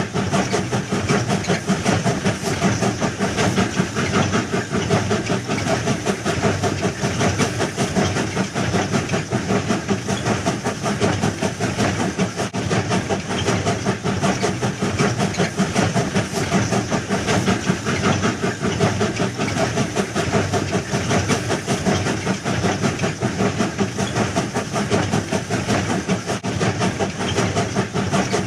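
A train running steadily, a continuous dense clatter that keeps an even level throughout.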